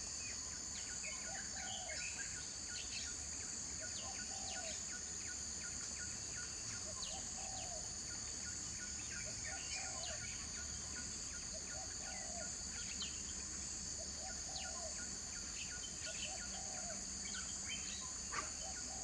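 A steady high-pitched insect drone, with a short low call repeated about every two seconds and scattered brief chirps over it.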